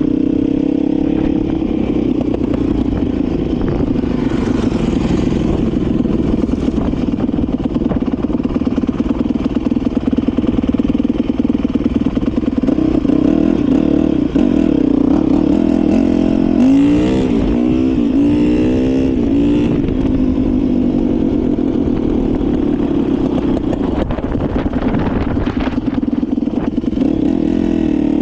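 Dirt bike engine running steadily while being ridden, with a burst of revving, the pitch rising and falling several times in quick succession, about two-thirds of the way through.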